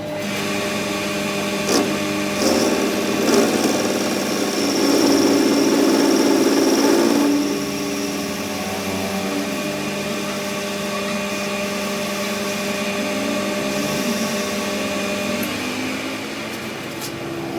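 Workshop machine motor running steadily with a constant hum. There are a few sharp clicks in the first three seconds, and a louder, rougher stretch of cutting noise from about four and a half to seven seconds in.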